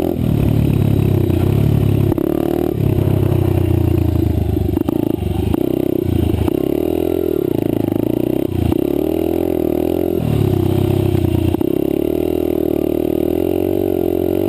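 Honda CRF80 dirt bike's small single-cylinder four-stroke engine running under way, its revs rising and falling repeatedly with several brief drops as the throttle is rolled off and on.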